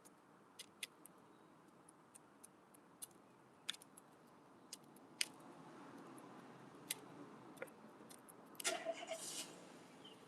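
Wood pigeon pecking at a window bird feeder: irregular sharp taps a second or so apart, with a louder quick flurry of taps and scuffling near the end, over a faint low rumble that swells and fades.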